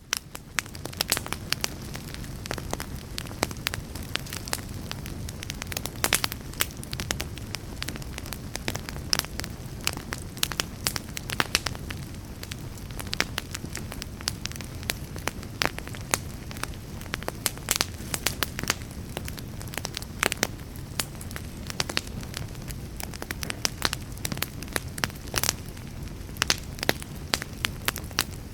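Wood fire burning in a fireplace: a steady low rumble of flame with frequent, irregular sharp crackles and pops from the burning wood.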